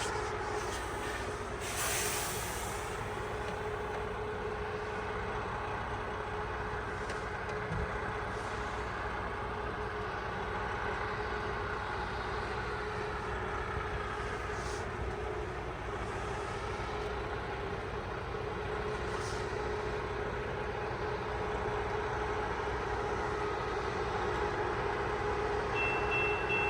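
Rail maintenance-of-way machines running past along the track as they drag a length of rail: a steady engine drone with a held whine. A high steady tone starts near the end.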